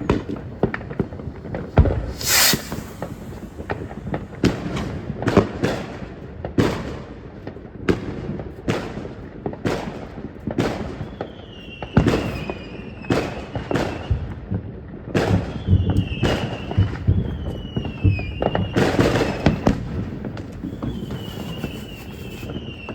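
Consumer fireworks going off: an irregular run of sharp bangs from firecrackers and aerial bursts. Several short whistles falling in pitch join in from about halfway through, with a brief crackling hiss near the start.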